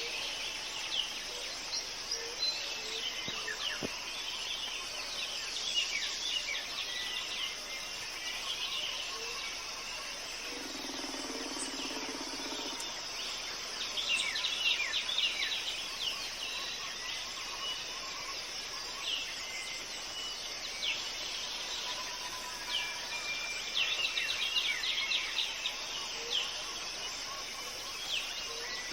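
Wild birds chirping and calling over a steady high drone of insects, with denser flurries of quick chirps about halfway through and again near the end, and a brief low hum a little before the middle.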